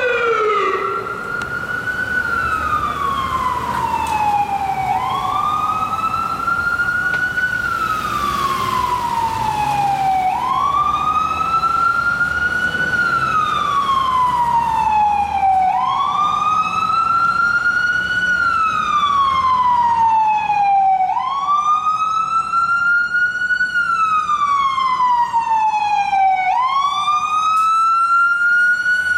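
Emergency vehicle siren on a slow wail: its pitch rises, then falls, about once every five seconds, over the low rumble of a heavy vehicle's engine.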